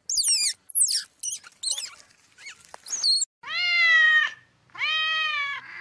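Rapid, very high-pitched mouse squeaks for about three seconds, then a cat meowing twice, each meow long and drawn out.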